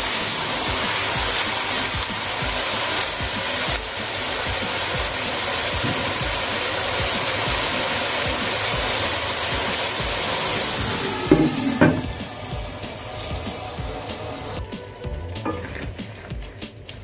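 Chopped onions and tomatoes sizzling in hot oil in an aluminium karahi. A couple of louder knocks and scrapes of a silicone spatula stirring in the pan come about eleven seconds in, and the sizzling is quieter after that.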